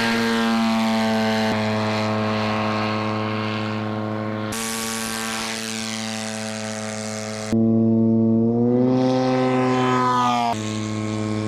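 Shadow unmanned aircraft's small rotary engine and propeller running steadily, in several abruptly cut segments. About nine seconds in the pitch rises as the engine is throttled up.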